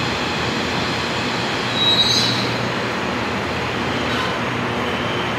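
CSR Zhuzhou 'AMY' light rail train pulling into a station, its running noise steady. About two seconds in there is a brief high-pitched squeal, the loudest moment.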